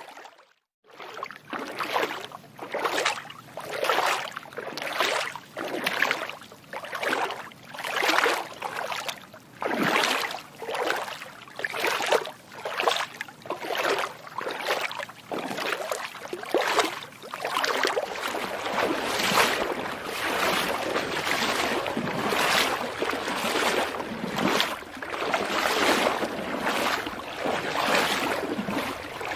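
Feet wading through shallow water, each step a splash, about one a second, the splashes running into each other more toward the end.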